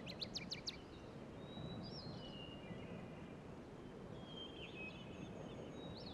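Faint birds chirping: a quick run of chirps at the start, then short whistled calls now and then, over a low steady hiss.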